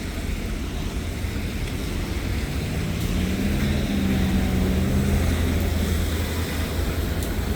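City street traffic rumbling steadily, with a vehicle engine humming past in the middle, swelling and then fading.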